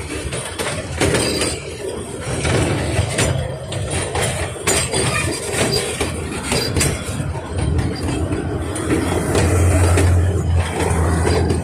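Narrow-gauge steam train running along the track: a steady low rumble with frequent clicks and clatter from the wheels, growing louder near the end.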